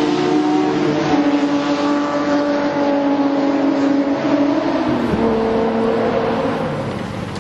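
Car engine held at high revs during a burnout, its pitch wavering as the throttle is worked, over a steady rushing noise from the spinning tyres. The revs drop about five seconds in, and the engine runs lower from there.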